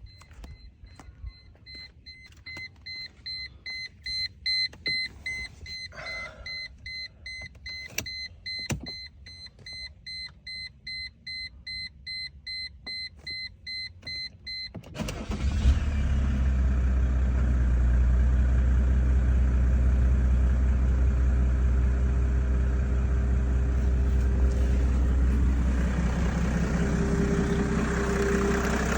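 Mercedes-Benz E300 dashboard warning chime beeping about twice a second, with a few clicks, then the engine cranks and fires about halfway through and settles into a steady, loud cold-start idle.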